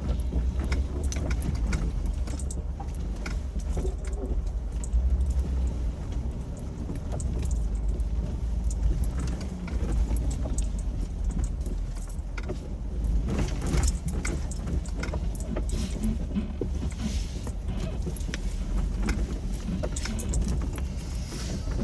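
Jeep Wrangler TJ crawling along a rough off-road trail: a steady low engine and drivetrain rumble, with frequent short clicks and rattles, thicker about two-thirds of the way in.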